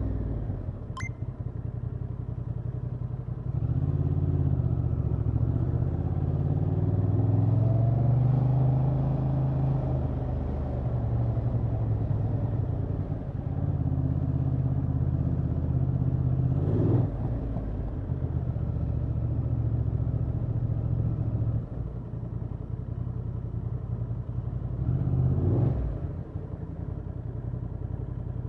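Honda XL750 Transalp's 755 cc parallel-twin engine on its stock exhaust, heard from the rider's seat while riding. The engine note rises and falls several times as the throttle opens and closes. There are two short louder surges, one past the middle and one near the end.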